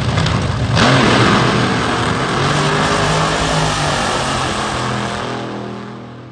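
A drag race car launching hard off the line, its engine note jumping suddenly in loudness, then running down the track and fading away.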